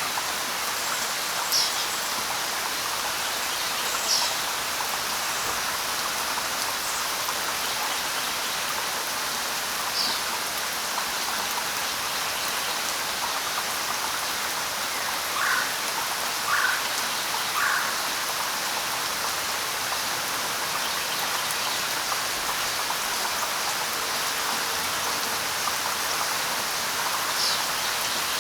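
Steady light rain hissing on leaves, with a few short bird calls over it: single high chirps now and then, and a run of three lower notes about a second apart midway.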